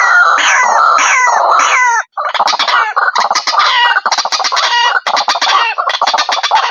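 White-breasted waterhen (ruak-ruak) calling, played as a bird-trapping lure recording. A run of loud downward-sliding calls, about two a second, breaks off briefly about two seconds in, then gives way to a fast chatter of rapid repeated notes.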